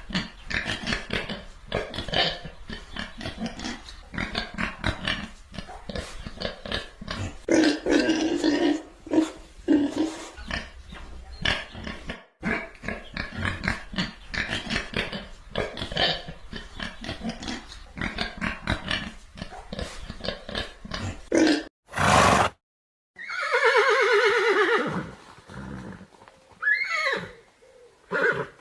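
An animal grunting in rapid, uneven bursts for most of the time, then, after a brief silence, a horse whinnying twice near the end, each whinny falling in pitch.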